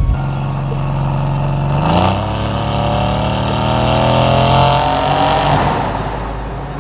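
Mercedes-AMG C63 S twin-turbo V8 running with its exhaust valves open: a steady low note, then about two seconds in it pulls away, the engine note climbing steadily for about three seconds before easing off.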